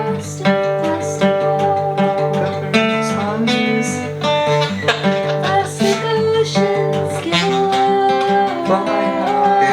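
Guitar music played live, with a steady repeating low rhythm under held and plucked notes; no singing.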